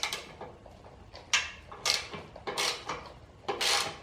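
A 10 mm spanner working a bolt loose: a series of short scraping clicks, about five, with the longest near the end.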